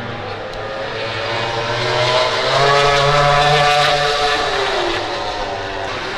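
A MotoGP racing motorcycle passes at speed, its engine note swelling to loudest about three seconds in, then dropping in pitch as it goes by.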